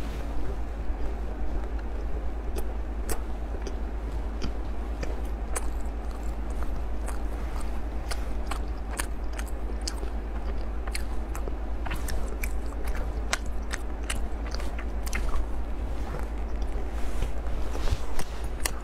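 Close-miked chewing and biting of a chocolate bar, full of small crisp crunches and mouth clicks scattered irregularly throughout, over a steady low hum.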